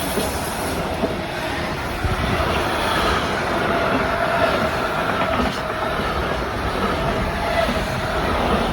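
Electric train running on the rails: a steady rumble of wheels on track with a faint steady whine, growing slightly louder about two seconds in.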